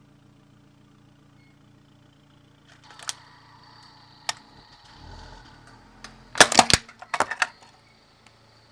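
Toy car cracking apart under a rolling car tyre: two single sharp cracks, then a quick cluster of loud snaps and crunches about six and a half seconds in, and a few more just after. A faint steady low hum runs through the first half.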